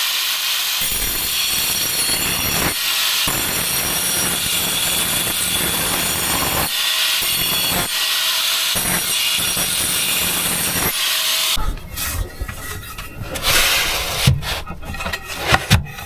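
Sanding the base of a windowsill: a power sanding tool runs steadily with a high whine for about twelve seconds, briefly easing off a few times, then stops, followed by irregular scraping and rubbing with a few knocks.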